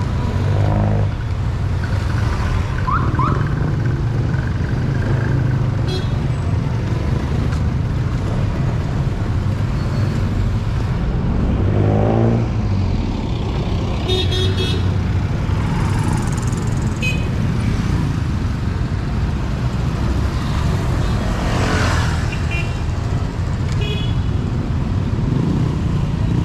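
Street traffic: a steady rumble of cars and motorcycles going by, with a few short horn toots.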